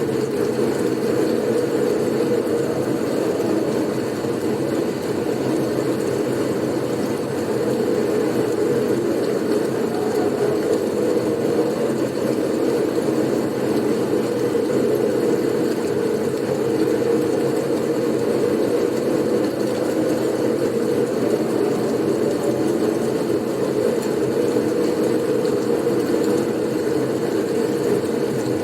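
Blizzard wind as a deep, steady rushing noise that swells slightly now and then, with no gusts or distinct events.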